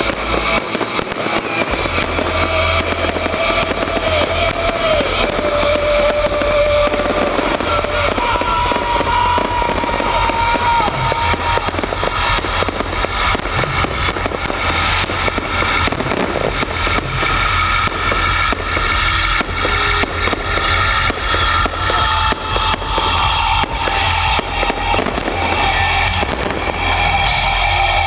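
Fireworks display: a dense, continuous string of shell bursts and crackle, with music playing along.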